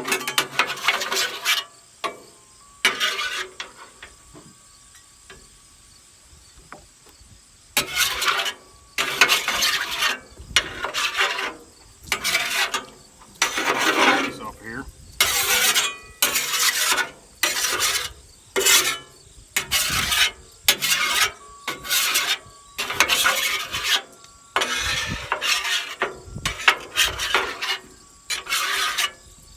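Metal spatula scraping across a flat-top steel griddle in repeated strokes, roughly one a second. There are a few strokes at the start, then a pause of several seconds, then the strokes run on steadily.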